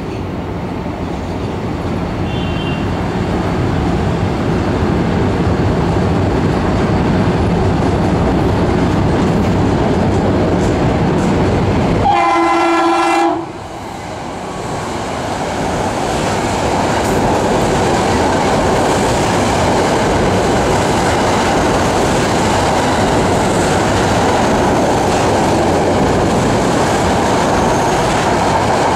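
Metro-North electric multiple-unit commuter train running in on elevated track, its wheel and rail noise building as it nears. About twelve seconds in, its horn sounds one blast of about a second and a half. The cars then roll past close by with steady clickety-clack and wheel noise.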